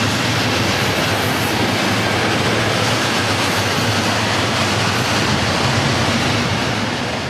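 Freight train wagons loaded with swap bodies and tank containers rolling past, a loud steady noise of steel wheels running on the rails.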